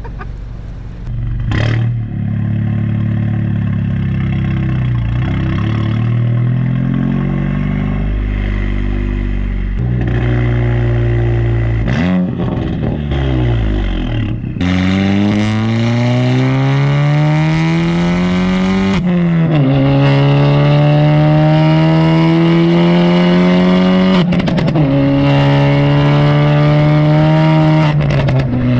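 Straight-piped, Stage 2 tuned VW Golf GTI's turbocharged four-cylinder engine running under load, then accelerating hard: its note climbs in pitch and drops back at an upshift, twice in the second half. A couple of sharp exhaust pops, one near the start and one about twelve seconds in.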